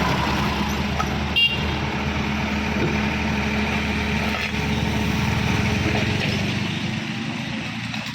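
Tractor diesel engine running steadily under load, with a brief high toot about a second and a half in. The engine sound eases off near the end.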